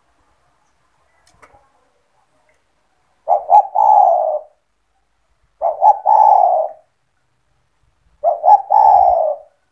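Spotted dove (tekukur) cooing: three calls about two and a half seconds apart, each two short notes followed by a longer, drawn-out note.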